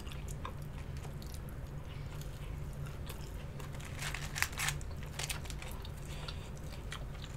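Close-miked chewing and biting of crispy fried chicken wings, with a few louder crunches about four to five seconds in, over a steady low hum.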